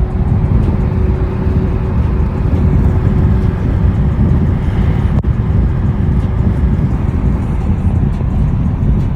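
A car running loudly and steadily, a heavy low rumble with a faint steady drone in it.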